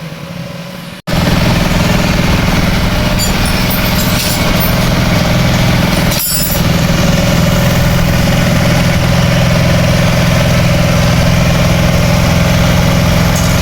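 Bajaj CT 100's single-cylinder four-stroke engine idling steadily, setting in abruptly about a second in.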